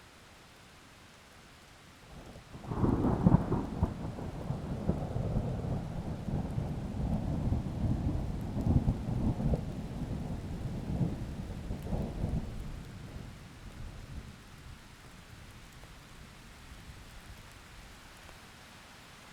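Thunder over steady rain: a low rumble breaks in about two and a half seconds in, rolls on in several surges for about ten seconds, then dies away, leaving the hiss of rain.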